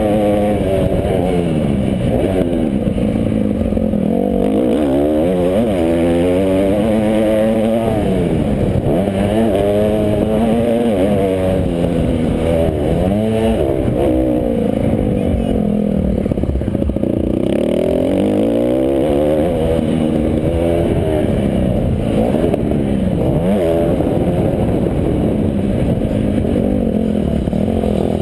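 Motocross bike engines racing, their pitch rising and falling again and again as they rev up and back off, with more than one bike heard at times.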